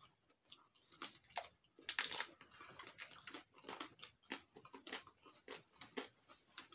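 Chewing and biting into tacos: faint, irregular crunches and wet mouth clicks, several a second.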